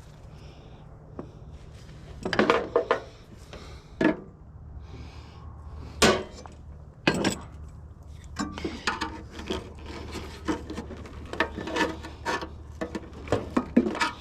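Irregular metal scraping, rubbing and clanking from a water heater being taken apart for scrap, with parts worked and pried loose by hand. There are sharp knocks every second or so among the scrapes.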